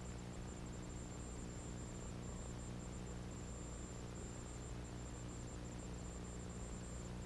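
Steady electrical hum with hiss and a thin, faint high whine: the background noise of the recording itself, unchanging throughout.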